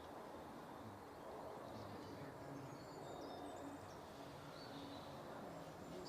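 Faint, steady woodland background noise, with a few thin, high bird calls in the middle and again near the end. No woodpecker drumming roll stands out.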